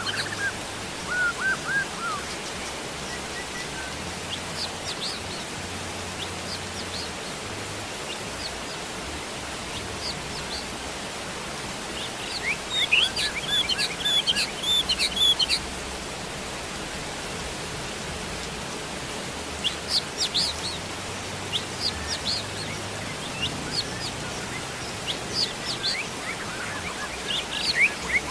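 Steady rain with a constant even hiss, and small birds chirping over it in short bouts of quick high chirps, busiest about twelve to fifteen seconds in, again around twenty seconds, and near the end.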